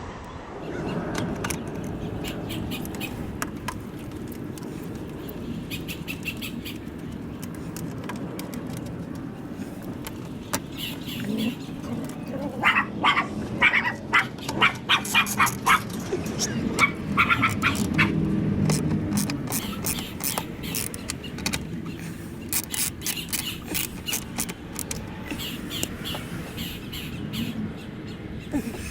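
Birds chirping in short repeated runs, busiest about halfway through, over a steady low rumble.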